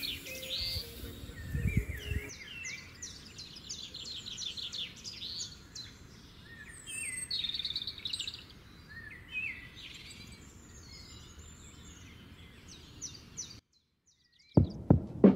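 Several wild birds chirping and trilling in quick repeated notes over a steady outdoor background, with a couple of low rumbles in the first two seconds. Near the end the sound cuts out and music with a drum-machine beat starts.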